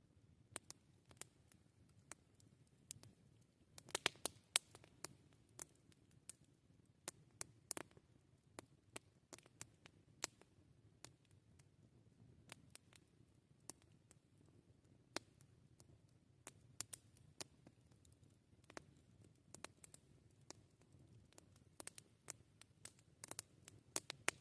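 Campfire crackling: sparse, irregular sharp pops and snaps of burning wood, a cluster of them about four seconds in and again near the end.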